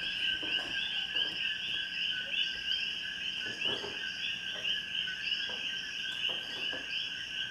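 Nighttime chorus of coquí frogs with insects: many overlapping high chirping calls, each repeating several times a second, forming a steady wall of sound.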